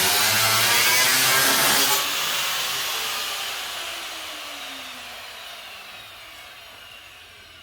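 Power tool running at full speed, then switched off about two seconds in and winding down, its whine falling in pitch as it slowly fades.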